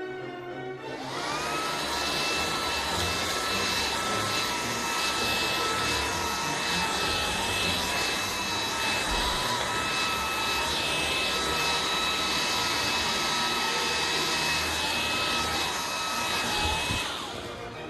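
Xiaomi V10 cordless stick vacuum switched on: its motor spins up within a second to a steady high whine over a rush of air, runs evenly, then is switched off near the end and winds down.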